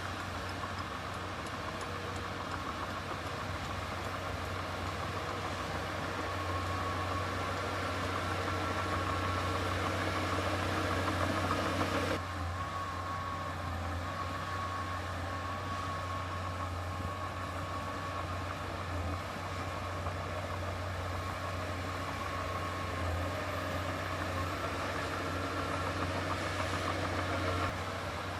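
Heavy diesel engine of earthmoving machinery running steadily, with a deep hum and a faint whine above it; the sound shifts abruptly about twelve seconds in.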